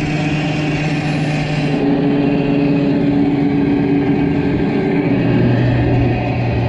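An engine running steadily, its pitch stepping to new levels a couple of times.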